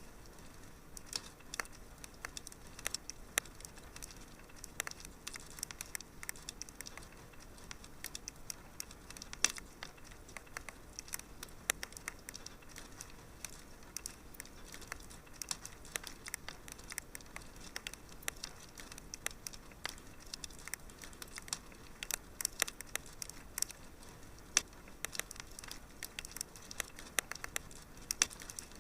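Wood fire crackling in a fireplace: a soft steady hiss with irregular sharp pops and snaps, several a second.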